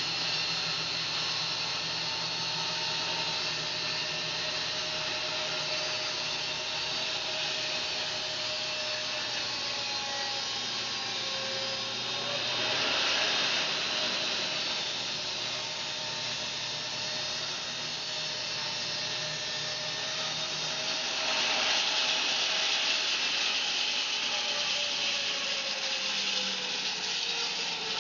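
Home-built bandsaw mill sawing a fir log: the band blade runs through the wood steadily with its power unit running, with pitch lines drifting slowly. The sound swells louder about halfway through and again from about 21 s on.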